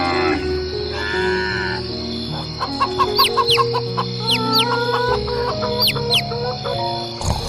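A rooster crowing twice in the first second and a half, then a run of short, rising bird chirps, over background music.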